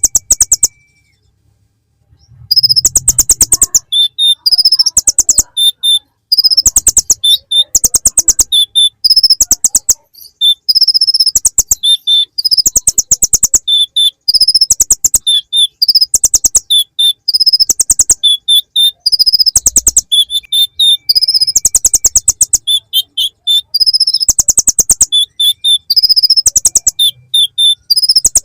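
A konin (kolibri ninja) sunbird singing loud, high, rapid ticking trills copied from the bar-winged prinia (ciblek), with short whistled notes between. The phrases come back to back, each about a second long, after a brief pause at the start.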